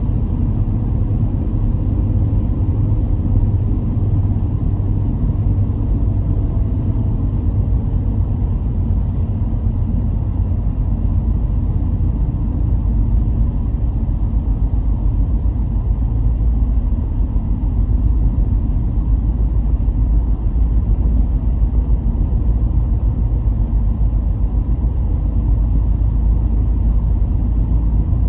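Car driving along a road: a steady low rumble of engine and tyre noise, with a faint engine tone in the first several seconds.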